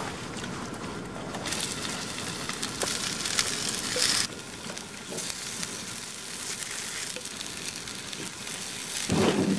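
Hash brown patties sizzling in hot oil in a cast-iron frying pan on a portable gas stove. The sizzle strengthens about a second and a half in, with a spatula clicking against the pan, and a brief louder sound comes near the end.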